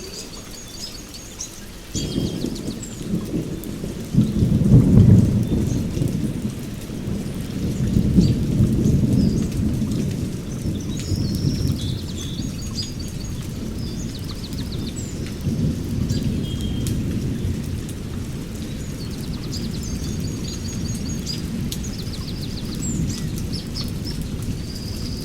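Heavy rain falling on a forest, with a long roll of thunder that breaks in about two seconds in, is loudest a few seconds later, swells again and keeps rumbling. Birds chirp and trill now and then through the rain.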